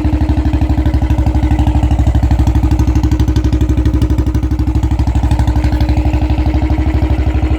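Royal Enfield Classic 500's single-cylinder engine idling through an aftermarket Long Punjab exhaust, a steady beat of about ten exhaust pulses a second.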